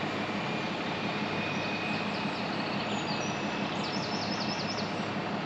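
A train running past, a steady noise of wheels on rail, with birds chirping over it from about two seconds in, in a quick run of repeated notes near the end.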